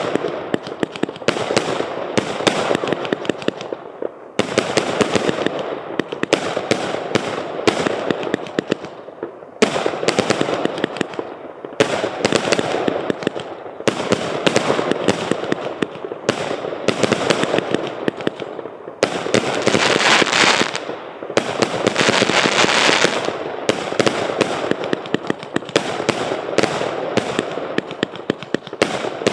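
A 200-shot, 0.8-inch fireworks cake firing rapid volleys of shots and bursts in quick succession, with short pauses between sequences. A louder stretch with more hiss and crackle comes about two thirds of the way through.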